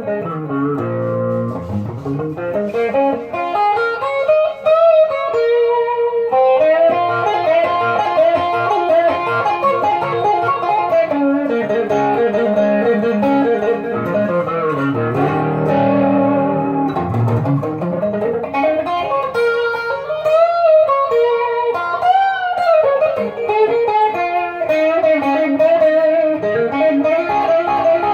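Wolf KSA-50 electric guitar played with both pickups selected, through an amp with Ibanez TS9 overdrive, chorus and delay: a melodic lead line of sustained notes with several string bends.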